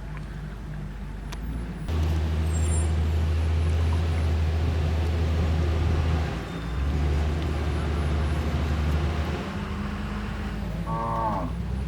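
Backhoe loader's diesel engine running, getting louder about two seconds in, with a brief dip in the middle. Near the end a short falling whine sounds over it.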